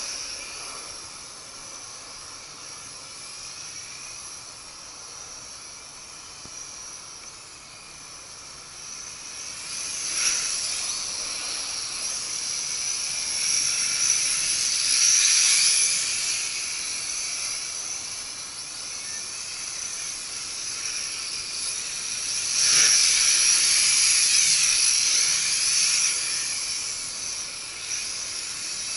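Nihui U807 toy quadcopter in flight, its WLtoys V636 micro motors and propellers whining high. The whine swells louder twice, about ten seconds in and again a little past twenty seconds.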